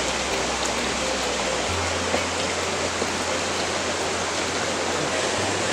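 Steady rush of flowing water, with background music whose low bass notes change about two seconds in and again near the end.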